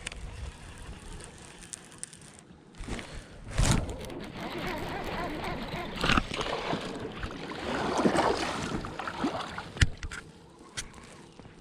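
Water sloshing and splashing around a fishing kayak, swelling in the middle, with a few sharp knocks against the hull or gear.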